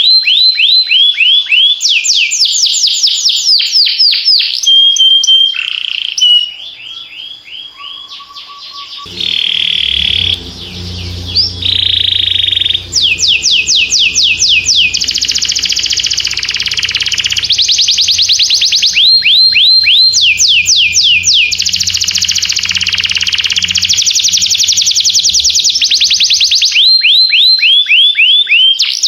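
Domestic canary singing a long song of fast trills, each a rapid run of repeated falling high notes, switching to a new phrase every second or two, with a brief steady whistled note near the middle. A steady low hum runs underneath from about a third of the way in until near the end.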